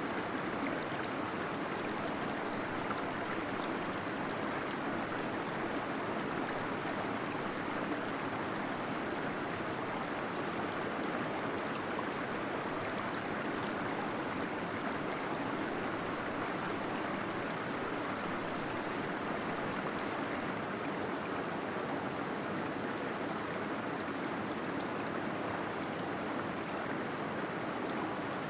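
Small waterfall splashing and gurgling inside a cave: a steady rush of falling water.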